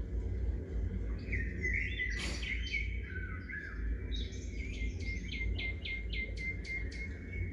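Wild birds chirping and calling, ending in a quick run of short repeated chirps about four a second, over a steady low background rumble.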